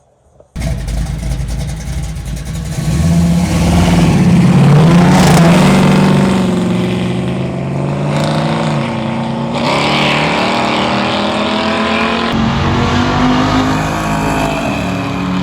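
Car engines at full throttle, accelerating hard, with the pitch climbing and then dropping back several times as the gears change. The sound starts abruptly about half a second in.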